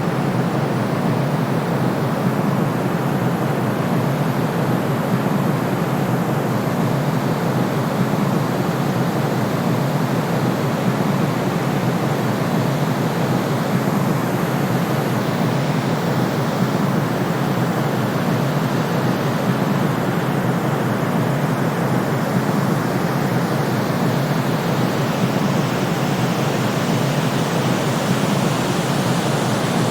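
Steady white noise for soothing a colicky baby: a continuous, even hiss weighted toward the lower pitches, with no pauses or swells.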